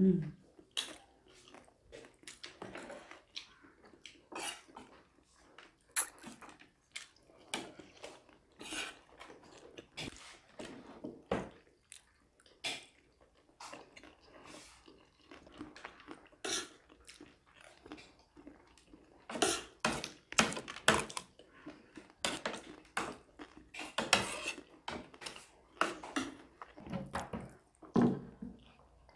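Close-miked eating sounds: chewing and crunching of food, with metal spoons clinking and scraping on ceramic plates in short, irregular clicks.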